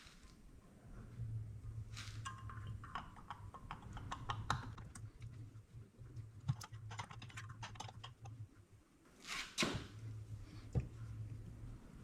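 Faint, scattered small clicks and a few light knocks, like small parts and wires being handled, over a steady low hum.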